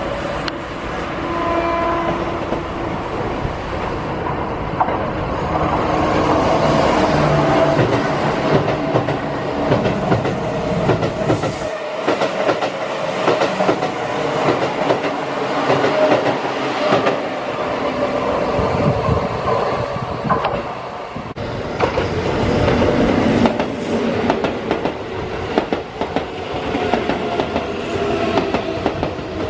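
Keihan electric trains passing, their steel wheels clacking over rail joints with a continuous running rumble; the low rumble drops away abruptly about twelve seconds in and builds again.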